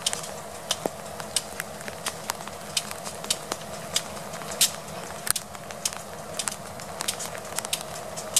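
Raindrops ticking irregularly and sharply close to the microphone, over the steady low rumble of a GP38 diesel switcher locomotive moving slowly.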